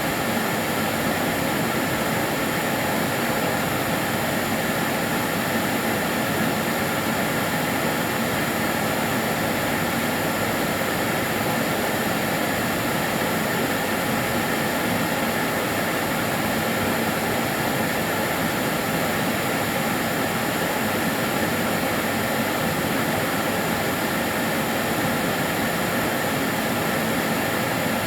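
Karcher DS 6 Premium water-filter vacuum cleaner running steadily: an even rushing hiss with a faint constant whine over it.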